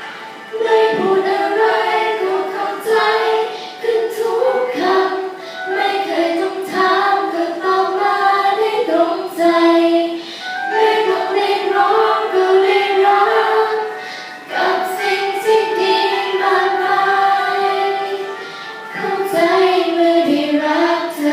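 Several young female voices singing a Thai song together, in sung phrases of a few seconds with short pauses for breath between them.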